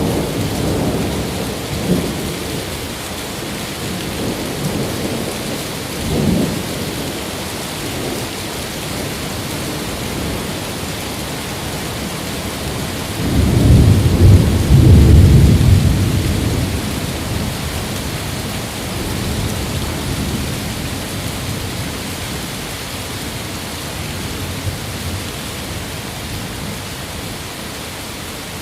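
Steady rain with rolls of thunder: a rumble right at the start, a shorter one about six seconds in, and the loudest, longest roll from about thirteen to seventeen seconds in, then dying away under the rain.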